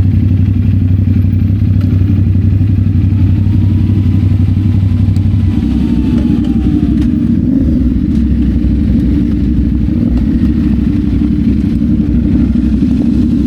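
CF Moto 450SR-S motorcycle's parallel-twin engine running under riding load, loud and steady, with the engine note dropping about five and a half seconds in.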